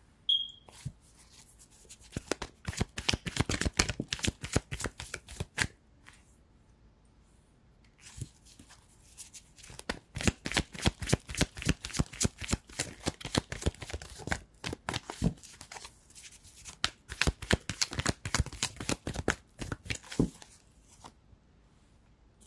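A deck of oracle cards being shuffled by hand, heard as two long spells of rapid clicking with a quiet pause of about two seconds between them.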